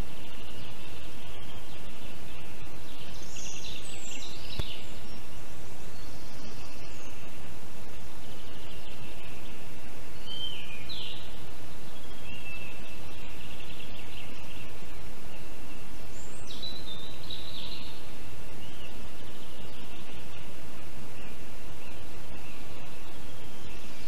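A steady loud hiss of outdoor microphone noise, with birds calling briefly over it a few times.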